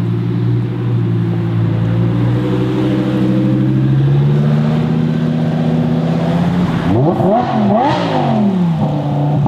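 Audi R8 V10 Performance's 5.2-litre V10 with an aftermarket exhaust running at low revs with a steady, loud note. About seven seconds in it is revved sharply twice in quick succession, the pitch shooting up and dropping back each time.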